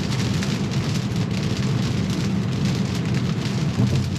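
Rain and wet-road tyre noise heard inside a moving Tesla's cabin: a steady hiss over a low road rumble.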